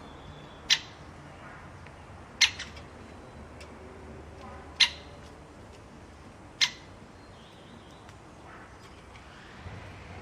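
A small pet parrot gives four short, sharp calls about two seconds apart, with fainter chirps in between.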